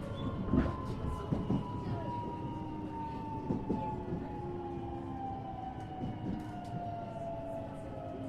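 JR West 227 series electric train's traction motors whining in a steadily falling pitch as the train slows for a station stop, heard inside the motor car. Running rumble underneath, with scattered knocks and clicks from the wheels and car body.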